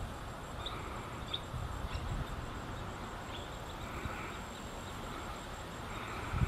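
Faint, short, high bird peeps, about four in the first three and a half seconds, over a low wind rumble on the microphone.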